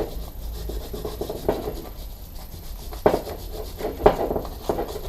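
Hand wire brush scrubbing a brake caliper in repeated back-and-forth strokes, cleaning scabby corrosion and dirt from around the piston bore. There are a couple of sharper knocks about three and four seconds in.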